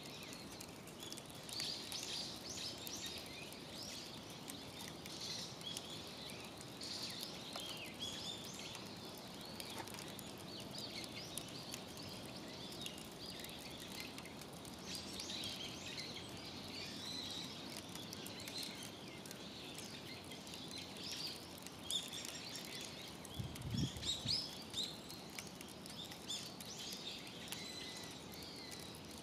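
Small birds chirping and singing repeatedly over a steady outdoor background hiss. A brief low rumble comes near the end.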